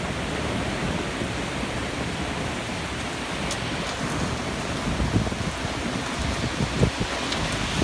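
Heavy thunderstorm rain, a steady hiss, with a few short low bumps near the end.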